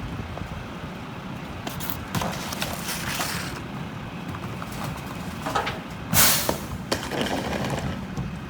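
Mack LR garbage truck's diesel engine running with a steady low rumble, broken by short hissing bursts; the loudest, a brief sharp hiss, comes about six seconds in.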